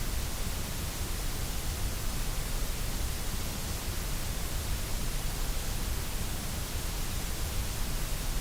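Steady white noise: an even, unchanging hiss across all pitches.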